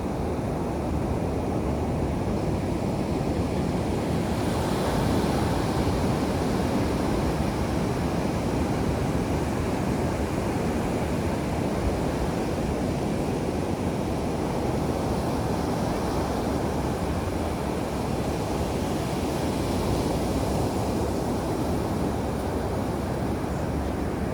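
Ocean surf washing onto a beach: a steady rush of waves that swells about four seconds in.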